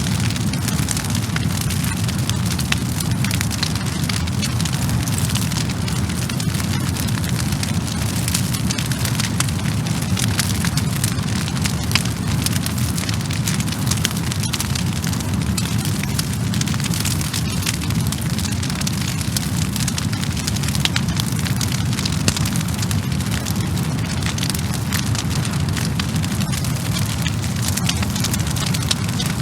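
Wood fire crackling: a dense run of sharp pops and snaps over a steady low rumble and hiss of burning logs.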